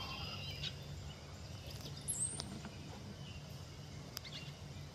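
Faint wild bird chirps and short calls over a steady low hum, with one brief sliding call about two seconds in.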